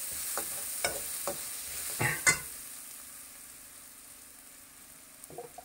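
Onions and ginger-garlic paste sizzling in hot oil in a kadhai while being stirred, with a few sharp knocks and scrapes of the utensil against the pan in the first two and a half seconds, the loudest a little over two seconds in. The sizzle then fades to faint.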